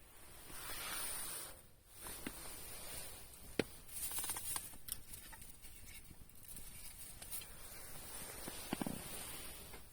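Wood campfire crackling, with scattered sharp pops, the loudest a little over a third of the way in, over a soft hiss of flames.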